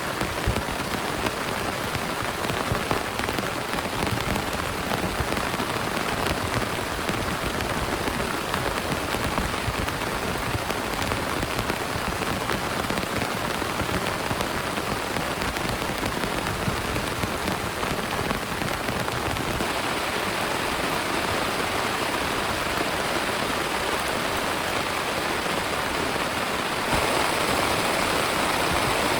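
Heavy rain pouring steadily, a dense patter of drops striking a surface. Near the end it becomes louder and smoother, a more even rush of water.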